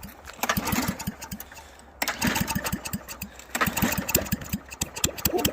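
Straight-piped lawn mower engine, with no muffler and no airbox, firing in irregular bursts of sharp pops: it sputters, fades and catches again several times. It is trying to run, and fires faster near the end.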